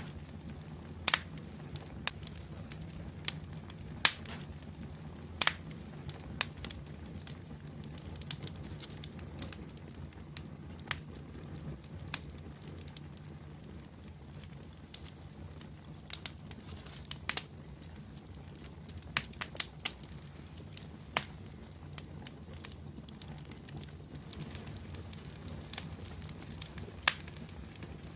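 Open wood fire burning with a steady low hiss and rumble, and sharp crackles and pops at irregular intervals, a few of them loud.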